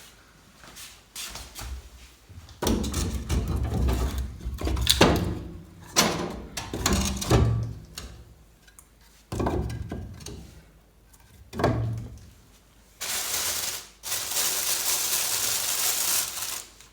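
Thunks, knocks and scraping as a fireplace's glass door and fire guard are handled. Near the end comes a few seconds of steady hiss.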